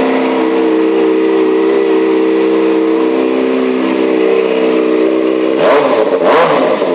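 A 2011 Kawasaki ZX-6R's inline-four engine, with a short aftermarket exhaust, idling steadily, then revved briefly near the end, its pitch rising and falling before it settles back to idle.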